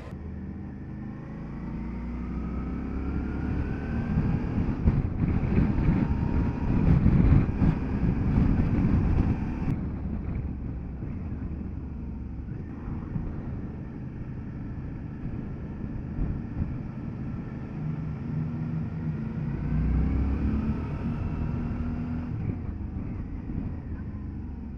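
Motorcycle engine running under way, rising in pitch as it accelerates early on and again near the end, with a louder rushing stretch in between.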